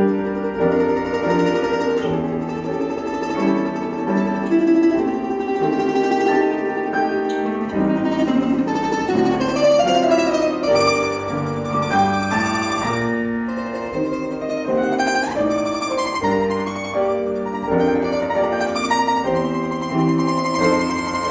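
Instrumental music on plucked string instruments: a mandolin-like melody over accompanying notes, with several notes sounding at once.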